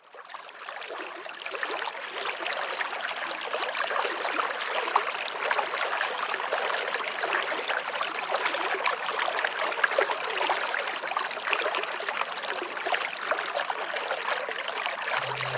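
Water running and trickling in a stream, fading in over the first second or two and then flowing steadily. A low steady hum comes in at the very end.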